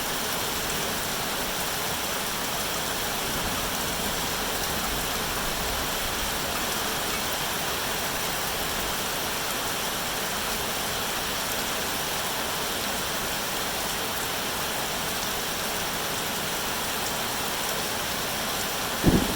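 Steady, even rain falling, with a loud low rumble of thunder breaking in right at the end.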